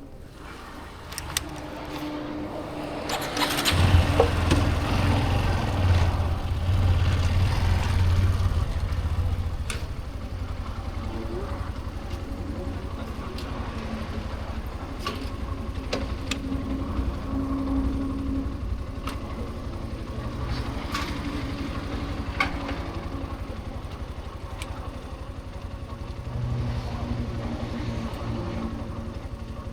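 Motorcycle engine starting about four seconds in. It runs louder for about six seconds, then settles to a steadier, quieter run.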